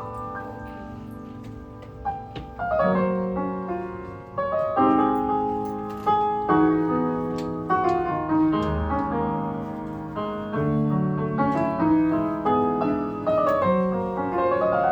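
Piano playing a jazz piece, chords and melody notes struck about once a second and left to ring.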